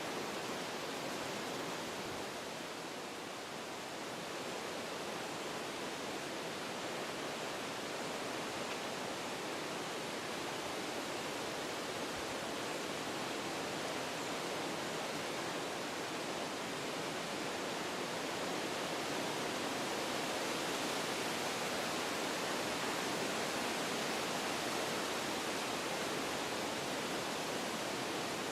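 Wind blowing through forest trees, a steady rush of moving foliage that eases a few seconds in and swells a little in the second half.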